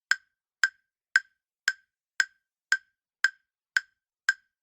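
Countdown-timer ticking sound effect: nine short, sharp ticks, evenly spaced at about two a second, with silence between them.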